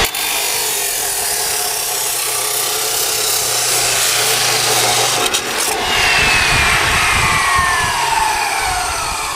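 Chop saw cutting through a section of 3-inch exhaust pipe, a harsh steady grinding. A little past five seconds the cut ends, and the blade's whine falls in pitch as it spins down.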